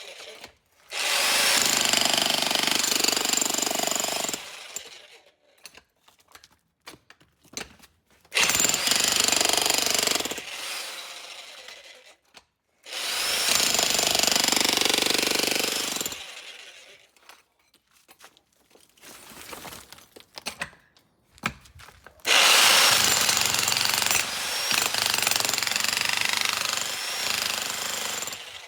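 1700 W electric demolition hammer (DESHI Z1G-DS-65C) breaking concrete with a point chisel, run in four bursts of hammering with pauses between them. The last burst is the longest and loudest; faint scattered knocks fall in the pauses.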